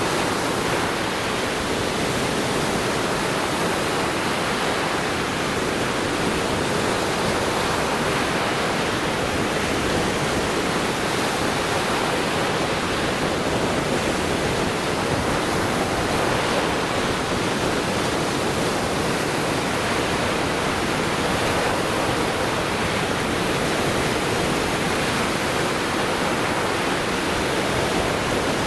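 Lake Michigan waves washing onto the shore, a steady rushing noise with no breaks.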